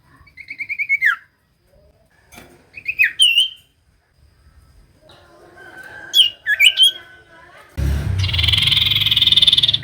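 Common iora calling: short stuttered whistles that fall in pitch, a few sharp upslurred notes, then a loud harsh buzzing rasp for about the last two seconds.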